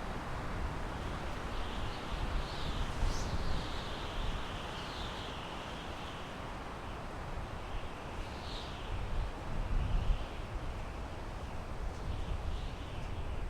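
Wind blowing through pine trees: a steady rushing hiss with a low rumble that swells in gusts, about three seconds in and again near ten seconds. A few faint high chirps come and go over it.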